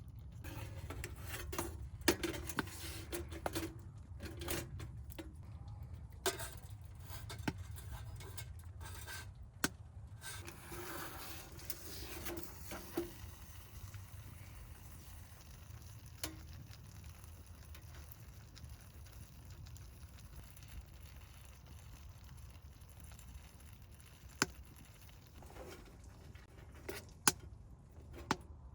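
Camp cooking handling sounds: light tapping and rustling with occasional sharp metal clinks, such as a spoon against a sierra cup, over a steady low rumble. The handling is busy for the first dozen seconds, then only a few isolated clicks.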